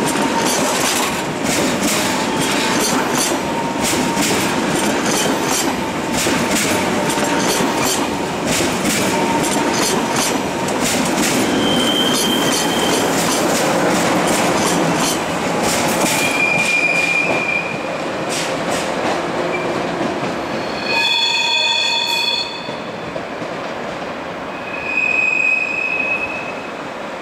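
Train running past close by, its wheels clattering rapidly over rail joints, with short high-pitched wheel squeals coming and going. Near the end the clatter thins and a brief squealing chord rings out before the sound eases off.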